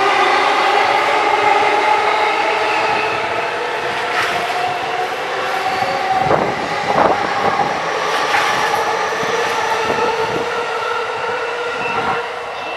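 Electric commuter train running through the station: a motor whine of several steady tones, with a run of wheel clicks over the rail joints in the second half.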